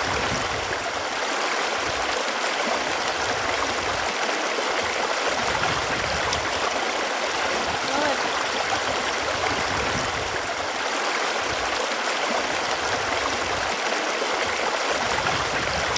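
Running water flowing and rushing steadily, with a continuous splashing, bubbling texture.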